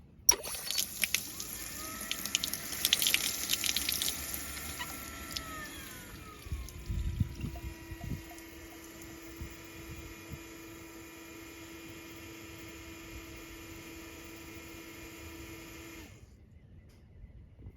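Water running from a tap while a Kawamoto Soft Kawa Ace 150 well pump runs with a steady hum. The water stops about six seconds in and the hum drops in pitch and holds. The pump then cuts off suddenly about sixteen seconds in.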